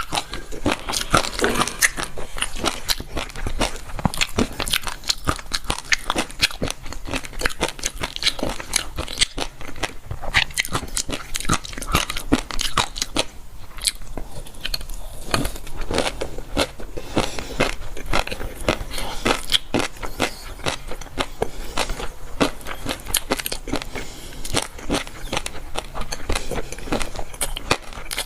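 A person chewing and biting crunchy food close to the microphone: a dense run of crisp, crackling chews, with a short lull about halfway through.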